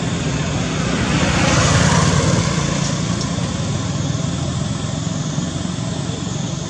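A motor vehicle's engine running steadily, louder for a moment about two seconds in.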